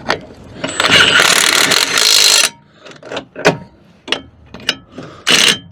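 Ratchet wrench run in a fast burst of ratcheting clicks about a second in, then a few separate clicks and knocks, and another short burst near the end, as the brake caliper bolts are run in before torquing.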